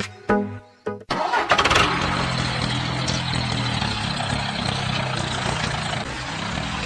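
Background music for about a second, then cut off suddenly by a steady running sound of a small engine or motor, which holds on evenly for the rest.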